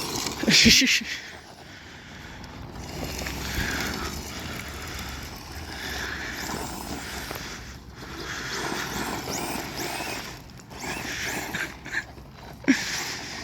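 Brushless electric RC short course trucks driving on dirt, their motors whirring up and down in pitch with tyre and gravel noise, after a brief loud rush of noise about half a second in.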